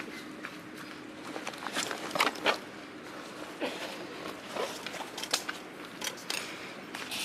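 Irregular short clicks and rustles, as of gear being handled, over a steady background hiss; the loudest few come about two seconds in.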